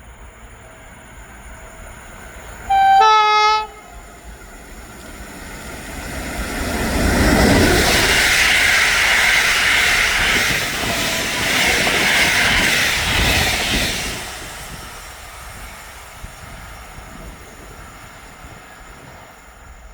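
A train gives one short horn blast, then passes by, loudest for about seven seconds, its wheels clattering rhythmically on the rails, before fading away.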